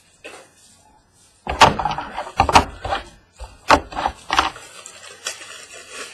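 A run of sharp knocks and clacks with rustling between them, starting about a second and a half in: trading cards and their packaging being handled and set down on a table.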